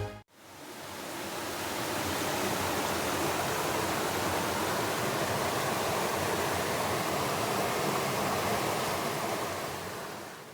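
Waterfall water rushing steadily, fading in at the start and fading out near the end.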